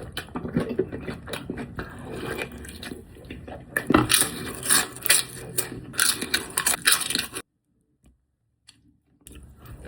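A person chewing and biting food close to the microphone, with wet, crunchy clicks. The sound drops out entirely for about two seconds near the end, then resumes.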